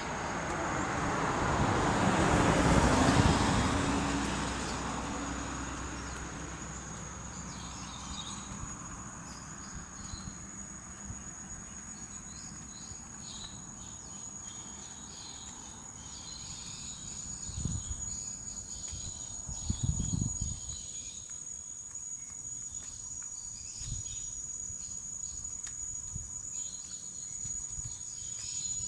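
Insects chirring steadily with a continuous high, thin tone. A broad rushing sound swells and fades away in the first few seconds, and a few low thumps come later on.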